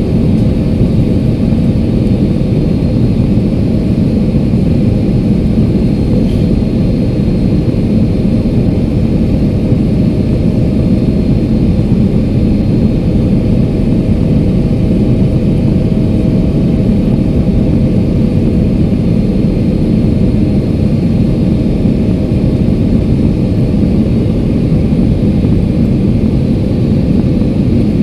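Steady cabin noise of a jet airliner in flight: a constant low rush of engines and airflow, with a faint steady whine on top.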